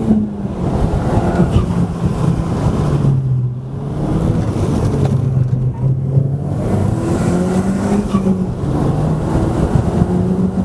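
Audi S3 8P's tuned 2.0-litre turbocharged four-cylinder engine heard from inside the cabin while driving. The engine note is steady at first, drops in pitch and eases for a few seconds about three seconds in, then climbs again from about seven seconds on.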